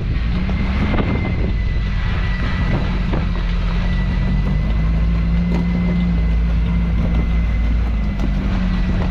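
A 1986 Toyota pickup's engine runs at low, slightly varying revs while the truck crawls over rocks, with a few light knocks.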